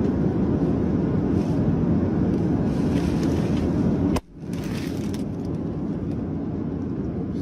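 Steady, dense vehicle or machinery noise, heaviest in the low range. It breaks off abruptly about four seconds in and gives way to a second, slightly quieter stretch of similar noise.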